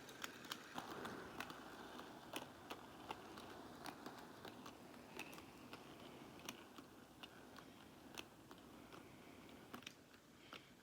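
Faint, irregular clicks of a model train's wheels going over the rail joins as it runs slowly, over a quiet steady hiss; the locomotive's motor is almost inaudible, a quiet runner.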